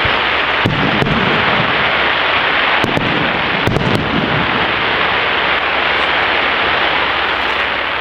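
Professional fireworks display in a dense barrage: a continuous rumble of shells bursting, with several sharp bangs standing out in the first four seconds.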